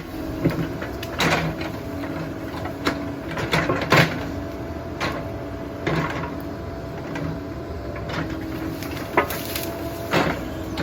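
Caterpillar 308 mini excavator running and working, its engine and hydraulics giving a steady hum whose pitch steps up and down, with sharp knocks and clanks every second or so as the machine works.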